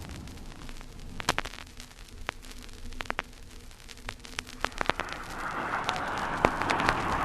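Vinyl record surface noise: irregular pops and crackle over a low rumble, left unfiltered. From about five seconds in, a broad rushing noise swells steadily louder.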